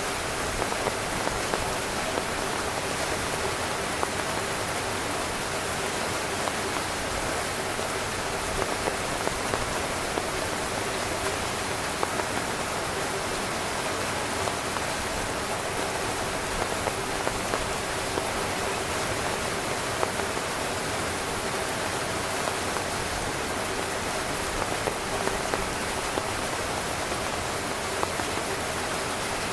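Heavy rain falling steadily on a tent, an even hiss with scattered louder drops pattering on the fabric.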